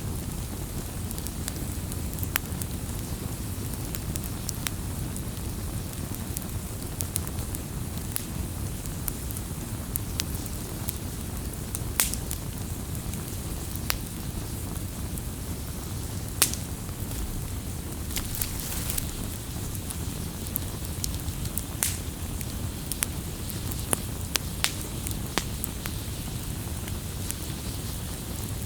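Campfire crackling: irregular sharp pops and snaps over a steady low rumble, with a couple of louder snaps partway through.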